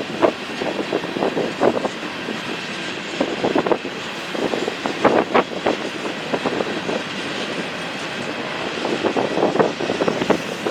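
A train rolling past, its wheels clattering with many irregular knocks over the rails against a steady rumble.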